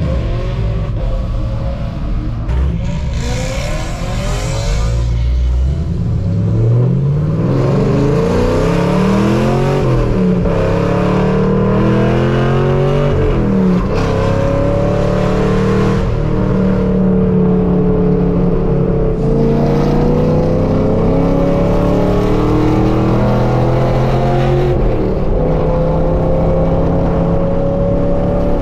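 Straight-piped 5th-gen Chevrolet Camaro SS V8 pulling through the gears: the engine pitch climbs, drops back at upshifts about ten and fourteen seconds in, then holds fairly steady and climbs slowly.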